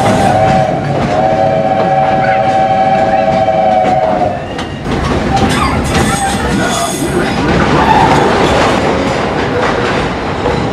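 Steam locomotive whistle of the Walt Disney World Railroad, several tones sounding together. The end of one blast is heard, then a long blast of about three seconds. After it the train runs on with the clickety-clack of the cars over the rails.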